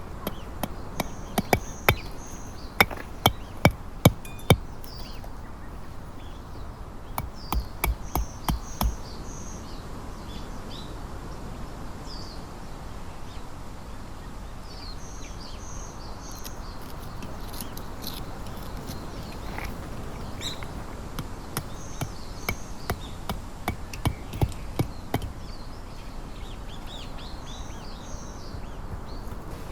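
Tent pegs being hammered into the ground: three runs of sharp knocks at about two a second, near the start, around eight seconds in, and again after twenty seconds. A bird chirps repeatedly in short groups of notes.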